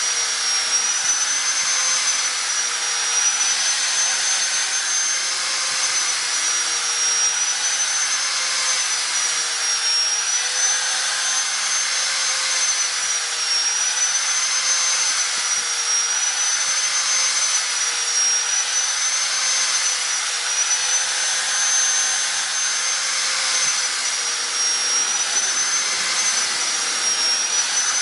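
A small electric motor running steadily with a high whine that wavers slightly every couple of seconds.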